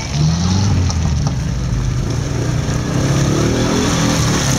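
Off-road 4x4's engine revving under load, its pitch climbing just after the start, then rising and falling again in the second half.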